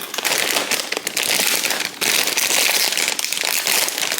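Plastic chip bag crinkling and crackling as it is opened and handled, with a brief pause about two seconds in.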